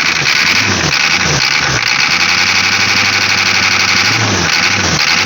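Ford 6.9 L IDI diesel V8 running rough just after being brought back to life from years of sitting. The revs swing up and down, hold steady for about two seconds in the middle, then waver again near the end.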